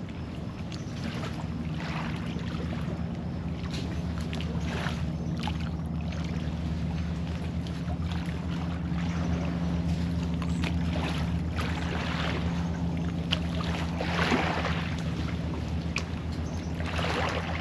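Small lake waves lapping and washing against the shore in soft, irregular splashes, a little louder near the end, over a steady low hum.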